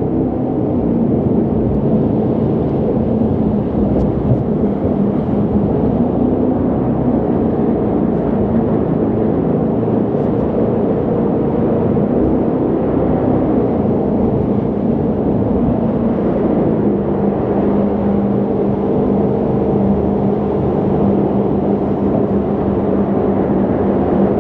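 Jet boat engine and water jet running steadily under way, heard from aboard: a constant drone with a held low hum.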